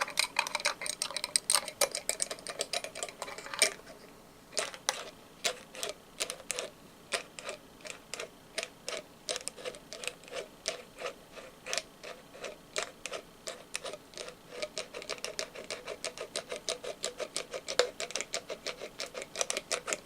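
Rapid tapping on a candle jar, about four taps a second, each tap ringing briefly. There is a louder knock and a short pause about four seconds in, then the tapping carries on steadily.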